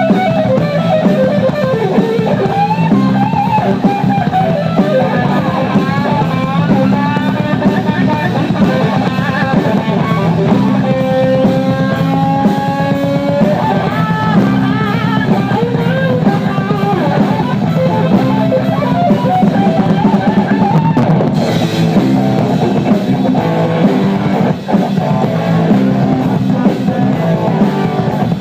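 Live rock band playing an instrumental stretch: drum kit keeping a steady beat under bass and electric guitar, with a lead line holding long notes that bend in pitch about halfway through.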